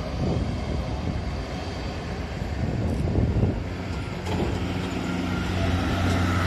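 Strong wind buffeting the microphone, with a steady low hum coming in about four seconds in.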